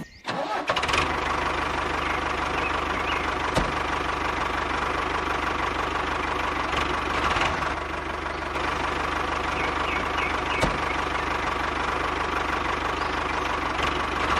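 A motor running steadily. It starts just after the sound begins, with a low hum under a noisy whir and a couple of faint clicks.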